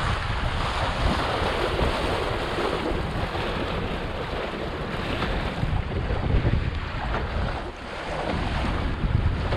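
Strong wind buffeting the microphone over water rushing and splashing along the hull of a small sailboat under way in a brisk breeze.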